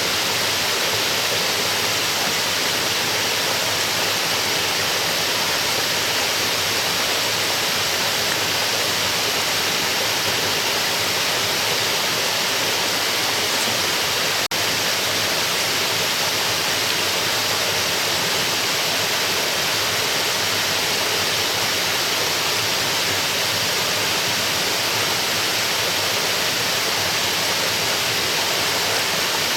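Waterfall: a steady, loud rush of falling water, with a faint click about halfway through.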